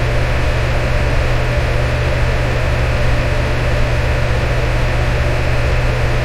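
Electric fan running steadily: an even rushing noise with a low hum underneath.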